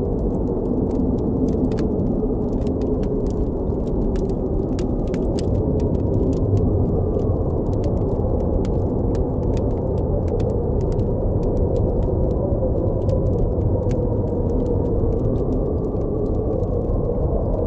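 Blizzard wind blowing in a steady low rumble, with a faint wavering howl, over a campfire crackling with frequent sharp pops.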